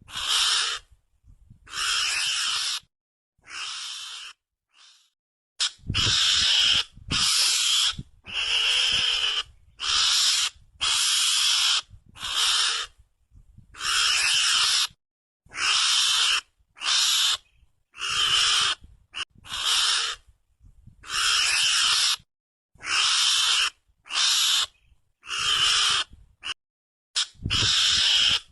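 Mongoose (garangan) lure call: a long string of short, raspy animal calls, each about half a second to a second long, repeated roughly once a second with brief gaps.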